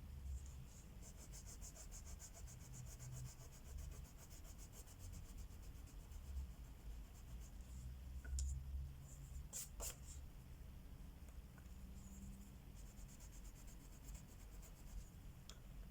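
Crayola wax crayon rubbing across paper in quick back-and-forth coloring strokes, faint and steady, with two sharp clicks a little past halfway.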